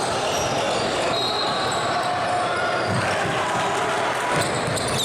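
Live basketball game sound in a gym: a ball bouncing on the court and short high squeaks, over a steady wash of voices echoing in the hall.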